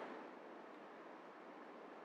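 Near silence: faint steady recording hiss in a pause between spoken sentences.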